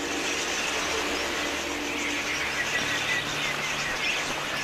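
Large flock of wild budgerigars chattering, a dense mass of high chirps and warbles, with a faint low steady hum beneath.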